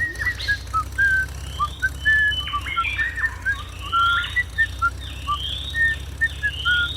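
Rapid short whistle-like chirps, with repeated rising sweeps about once a second, over a steady low hum.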